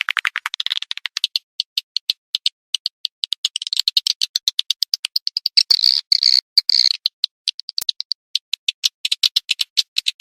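Edible-nest swiftlet call recording of the kind played to lure swiftlets: rapid trains of short, dry clicking chirps. They are dense at first, then sparser, with twittering chirps in the middle.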